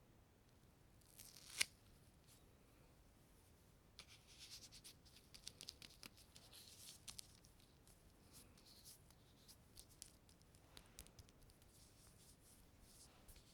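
Something sticky being peeled apart close to the microphone, quietly. There is one sharp peel about one and a half seconds in, then a run of quick crackly peeling sounds from about four to seven seconds, and fainter clicks after.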